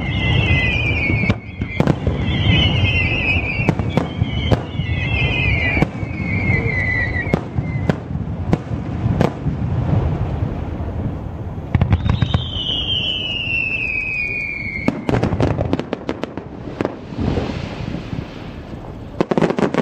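Fireworks display: a rapid run of shell bursts and sharp bangs over a continuous rumble. Whistling shells sound with falling pitch, several overlapping in the first eight seconds and one long whistle about twelve seconds in. A dense cluster of bangs comes around fifteen seconds and again near the end.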